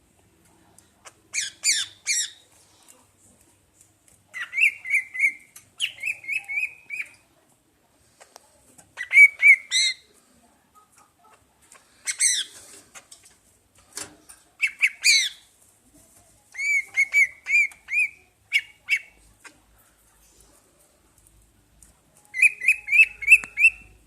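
Pet bird calling in short bursts of fast repeated harsh notes, several bursts with pauses between them.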